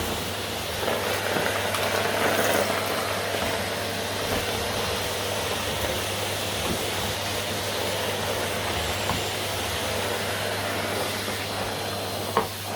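Vacuum cleaner running steadily, a constant motor hum under a broad hiss of suction, with a short knock near the end.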